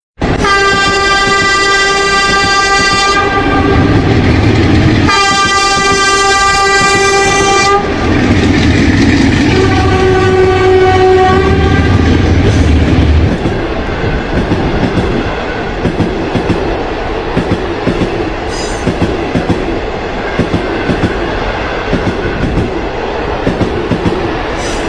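Train horn sounding three long blasts on one steady pitch over a rumbling train. Then the train runs on with wheels clicking over the rail joints.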